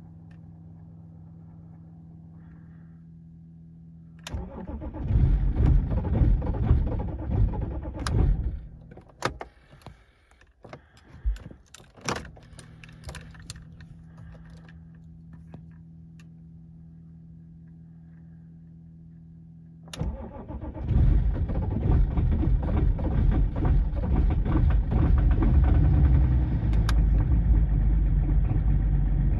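BMW diesel engine cold-started in deep frost. After a steady low hum, the engine fires about four seconds in, runs roughly and falters out after a few seconds; on a second start about twenty seconds in it catches and keeps running.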